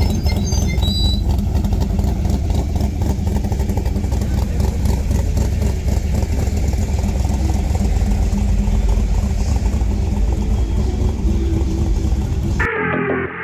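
Car engine running with a deep, steady rumble that cuts off abruptly near the end.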